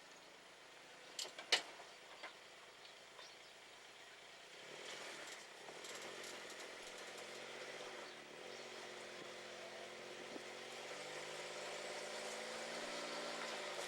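A couple of sharp knocks about a second and a half in. Then a Suzuki Jimny JB23's small three-cylinder engine runs at low revs on a rock-crawling course, its pitch wavering and growing louder toward the end.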